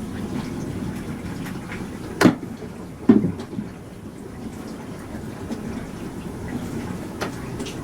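Bosch Serie 4 SMS46MW05G dishwasher mid-cycle: water spraying and sloshing steadily inside the tub. Two sharp knocks come a little over two and three seconds in.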